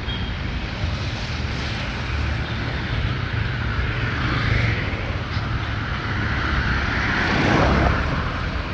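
Road traffic going by, with wind rumbling on the microphone. Vehicles swell and fade as they pass; the loudest passes close near the end.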